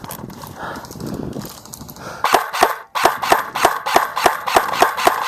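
About two seconds in, a paintball marker starts firing rapidly, a fast, even string of sharp shots at about six a second that keeps going.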